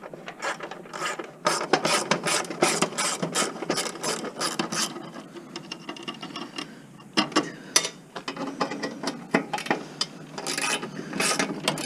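Ratcheting hand tool clicking in quick runs of strokes, backing out the bolts that hold a part of a table saw, with a few knocks of metal parts in between.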